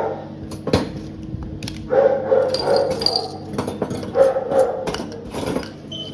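A dog barking in several short bursts, with a few sharp clicks in between.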